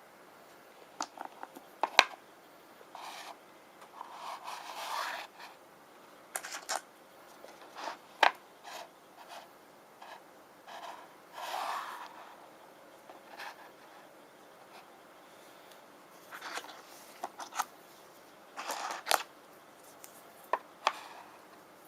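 Fingernails scratching and rubbing on small rune stones in short, irregular strokes, with sharp taps and clicks now and then.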